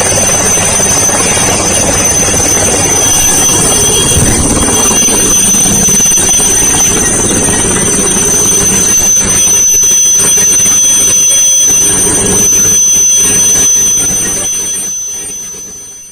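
Military helicopter's turbine engines and rotor running loud and steady, with a high, constant turbine whine over a rushing noise, fading away near the end.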